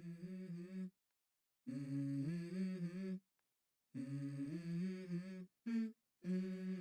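Wordless, unaccompanied humming in four phrases, each about a second and a half long, with a brief note before the last and silent gaps between them: the a cappella intro of a hip-hop track.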